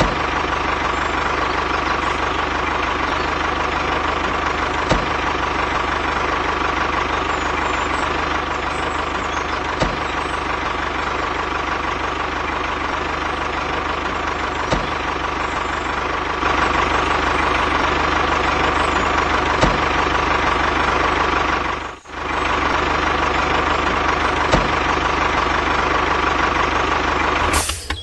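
Steady engine-like running sound with a constant hum, a small click about every five seconds, and a brief break about 22 seconds in.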